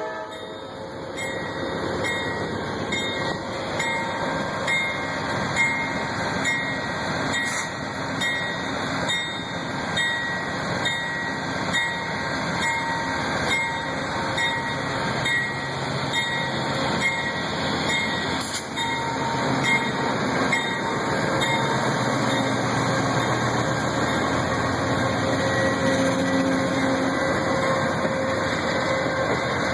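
Amtrak passenger train departing and rolling past, its wheels clicking regularly over rail joints, over a steady rumble. A low drone builds up in the second half and the sound grows a little louder.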